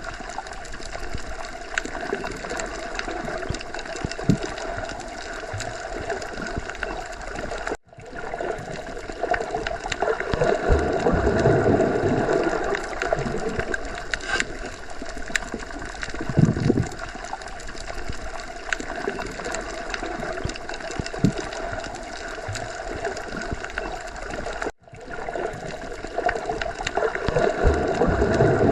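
Underwater sea ambience: muffled gurgling water over a steady hiss, swelling and easing slowly with a few soft low thumps. The sound cuts out completely for an instant twice, about eight seconds in and again near twenty-five seconds.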